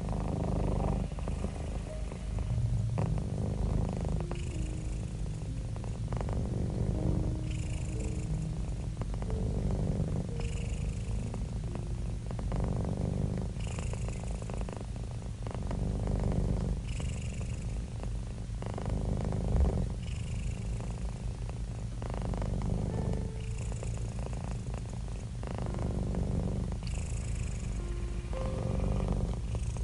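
Domestic cat purring: a steady low rumble that swells and eases about every three seconds as it breathes in and out.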